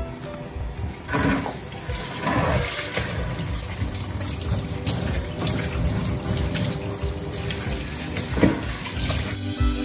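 Broccoli, cauliflower and shrimp sizzling and steaming in a sauté pan under a glass lid: a steady hiss that grows louder about a second in.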